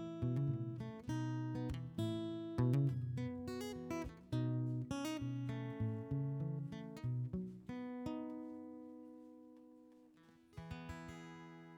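Acoustic guitar playing the closing bars of a folk song: a quick run of picked and strummed notes, then a chord left to ring and fade about eight seconds in, and one last soft strum near the end that rings out.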